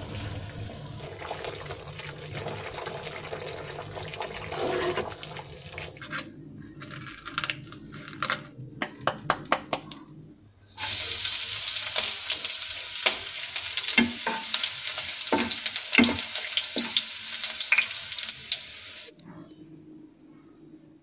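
Kitchen cooking sounds cut together: a watery bubbling for the first several seconds, then a run of sharp knocks. From about eleven seconds in, food sizzles in a hot pan while being stirred, with clinks of the utensil against the pan, for about eight seconds before stopping abruptly.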